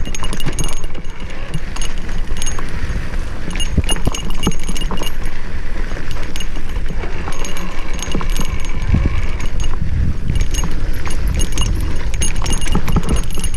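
Wind buffeting the microphone in a heavy low rumble while a mountain bike rattles down a rough single-track trail, with frequent irregular clicks and clatters from the bike over the bumps.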